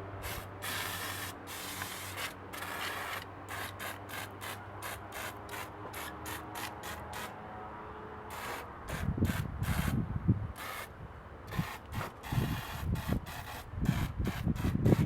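Engine degreaser sprayed from a trigger bottle onto the engine bay in many quick squirts, each a short hiss. Low rumbling bumps join in during the second half.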